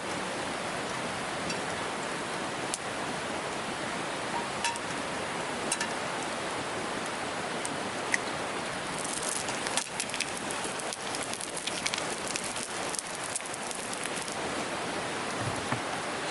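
Steady rain falling, with scattered sharp ticks that grow more frequent in the second half.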